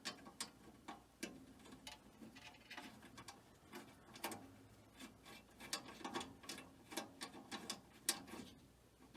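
Irregular small clicks and ticks of a screwdriver driving in the little screw that holds a furnace flame sensor in place.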